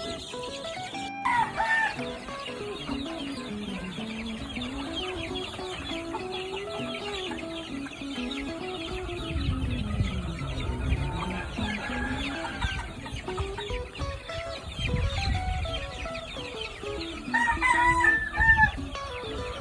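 Gamecocks crowing twice, about a second in and again near the end, over background music.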